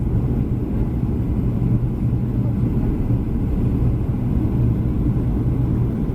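Steady low rumble of a Boeing 737-300's CFM56 turbofan engines and airflow, heard inside the passenger cabin.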